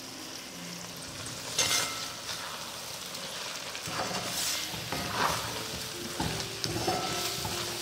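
Banana-flower pickle mixture of garlic, sesame oil, spice powders and tamarind sizzling in a steel kadai as it cooks down to thicken, stirred with a spoon that scrapes the pan every second or two.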